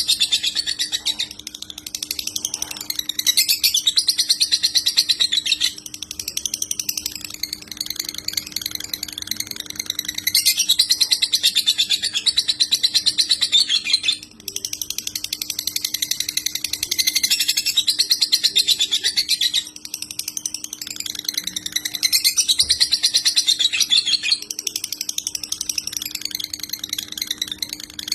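Lovebird singing its long 'konslet' chatter: very fast, high, rattling trills held for several seconds at a time, broken by short pauses, over a faint steady hum.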